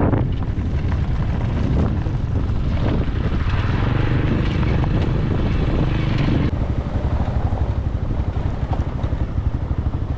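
Motorcycle engine running with a fast, low throb, the pulsing growing more regular a little past halfway.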